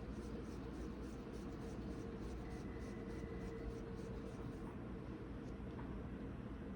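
Hands rolling and shaping bread-roll dough into balls: a soft, repeated rubbing over a faint steady room hum.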